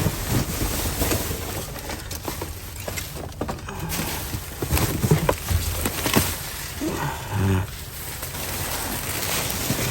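Rummaging through trash in a dumpster: plastic bags rustling and boxes and packages knocking and sliding as they are moved about, with a short vocal sound, like a grunt, about three-quarters of the way through.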